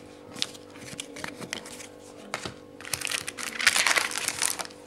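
Plastic trading-card pack wrapper being handled, crinkled and torn open, with light clicks of cards being handled. The crinkling gets much louder about three seconds in.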